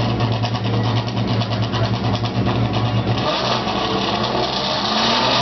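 Ferrari 360's V8 through a racing exhaust, idling with fine even pulses, then running at higher revs from about three seconds in.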